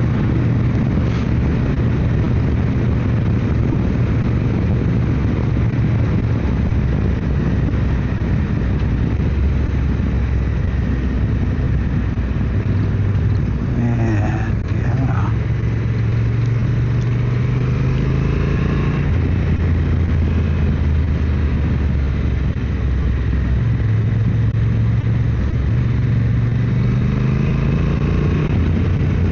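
Motorcycle engine running at road speed over a steady rush of wind noise. Its engine note steps up and down several times with throttle and gear changes.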